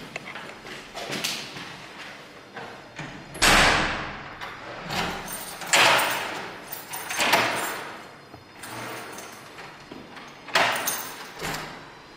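A string of knocks and thuds a second or more apart, each dying away with a short echo. The loudest come about three and a half and six seconds in.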